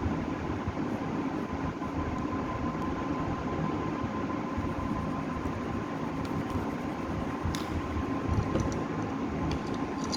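Coloured pencil rubbed rapidly back and forth on sketchbook paper while shading in an area, a continuous scratchy rubbing with a few light clicks near the end.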